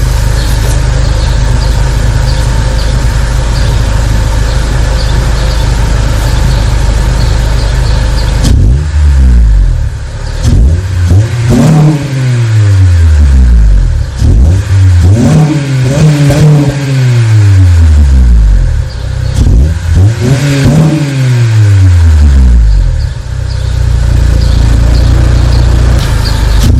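Acura TSX's K-series four-cylinder through a Greddy Evo 2 style custom muffler exhaust: a steady loud engine drone at first, then the engine note climbs and falls back three times, a few seconds apart, before settling into a steady drone again.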